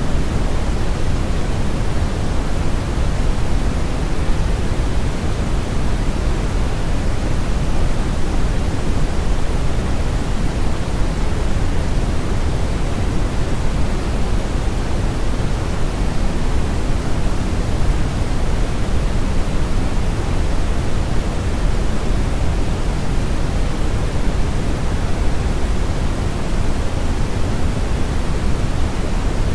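Steady brown noise: an even, unchanging rush of random noise weighted heavily toward the low end, with the highs rolled off.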